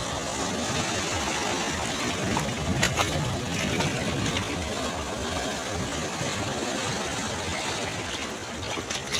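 Sea waves washing onto a beach, a steady rushing surf with a few brief crackles about three seconds in.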